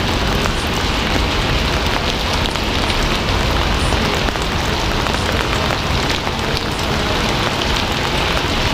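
Steady, heavy rain falling on a surface, a dense even hiss with many fine drop ticks.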